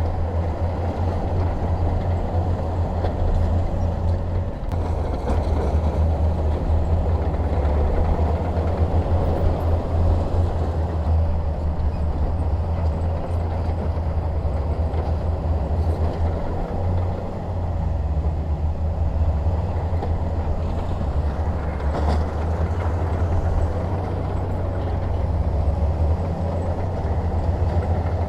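Bulldozer's diesel engine running steadily: a deep, continuous drone whose level rises and falls slightly.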